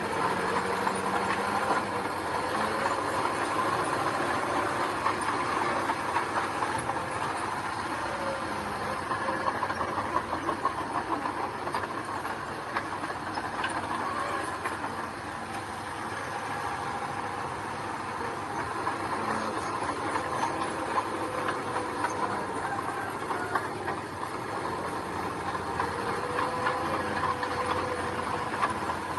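Heavy diesel earthmoving machinery running steadily at work, a continuous engine noise dense with fine clattering.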